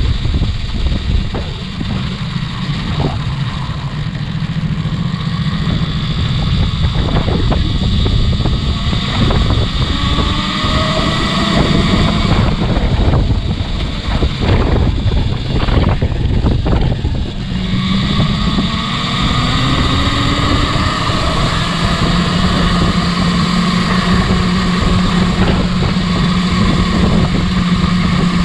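Motorcycle riding at speed: heavy wind buffeting on the microphone over the bike's drive tone, which rises in pitch as it accelerates about two-thirds of the way through.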